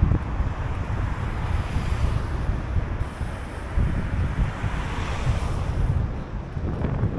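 Wind buffeting the microphone on a moving bicycle: a rough low rumble that swells and dips unevenly, with a rushing hiss over it.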